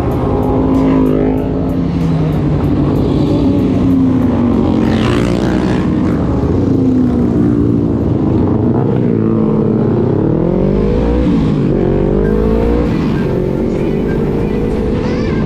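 Motorcycle engine running while riding, its pitch repeatedly rising and falling as the throttle opens and closes and the gears shift.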